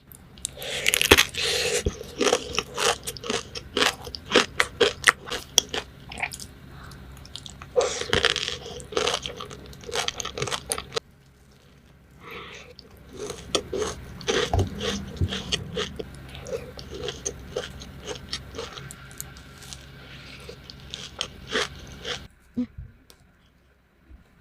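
Close-miked biting and chewing of Dubai chocolate, a chocolate bar filled with pistachio cream and toasted kataifi pastry, crackling and crunching with each bite. The loudest crunches come about a second in and again about eight seconds in, with softer chewing after.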